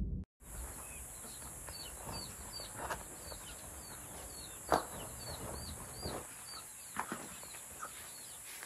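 Outdoor ambience with a small bird repeating a short, falling chirp two or three times a second over a steady high hiss. A few louder, sharp sounds stand out in the middle.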